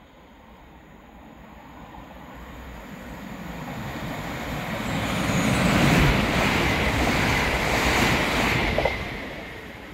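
Northern multiple-unit passenger train running in along the near platform track: a rushing rumble that builds over several seconds, is loudest as the train draws alongside, then falls away near the end.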